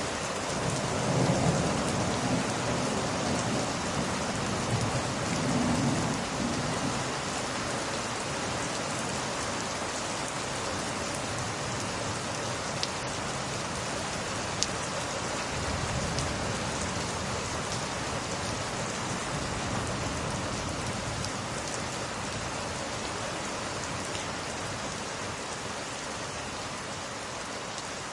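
Steady heavy rain, with thunder rumbling low in the first several seconds and again more faintly about two-thirds of the way through. Two single sharp clicks stand out in the middle.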